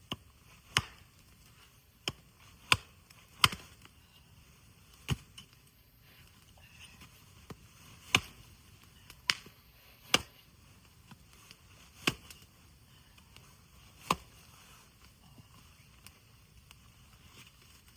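A series of sharp, separate strikes, about ten in all, spaced unevenly one to two seconds apart.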